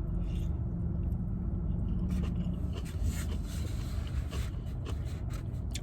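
A steady low hum inside a parked car, with a faint tone that fades out about a third of the way through. Small scattered clicks and scrapes from eating are heard over it.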